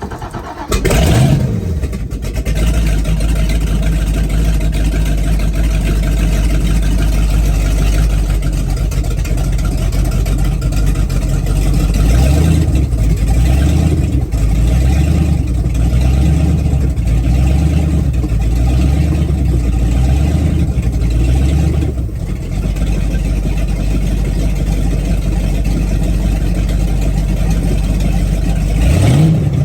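A 502 cubic-inch big-block V8 boat engine running through thru-hull exhaust: it revs up briefly about a second in, then settles to a steady idle that pulses unevenly for a stretch in the middle, and revs briefly again near the end.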